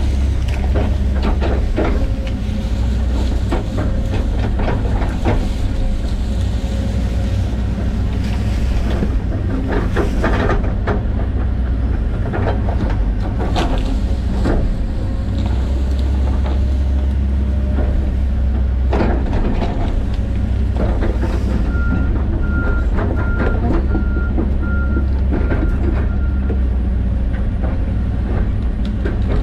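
John Deere 130G excavator's diesel engine running steadily under load, with repeated cracks and knocks as trees and brush are grubbed out. Between about 22 and 26 seconds in, a series of about six short, high beeps sounds.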